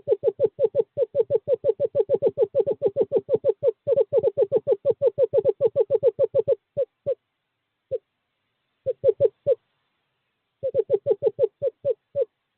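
Male screech owl giving a long trill at one pitch, about seven notes a second, that breaks up after about six and a half seconds into scattered single notes and short runs: a courtship call to a female.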